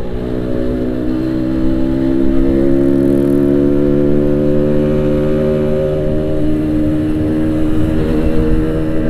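Yamaha RX-King 135cc two-stroke single-cylinder engine with an aftermarket Boban exhaust, ridden at a steady pace: the exhaust note rises gently over the first two seconds, then holds at a steady pitch.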